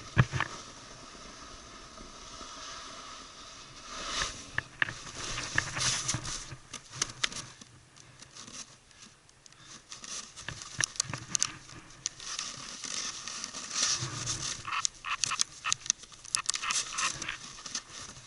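Snowboard sliding and carving over snow: the board edge scrapes and chatters in uneven surges with quick clicks, louder about four seconds in and again from about eleven to seventeen seconds.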